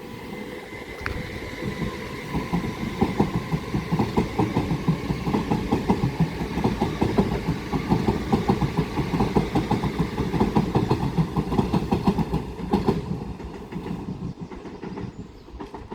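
A pair of Class 375 Electrostar electric multiple units passing under full power, with a steady electric traction whine. Rapid wheel clatter over the rail joints builds from about two seconds in and fades away near the end.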